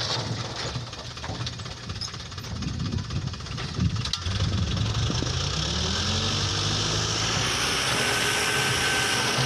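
Toyota Dyna dump truck's engine running, its revs rising and falling through the middle. Near the end a steady hiss with a thin whine joins in.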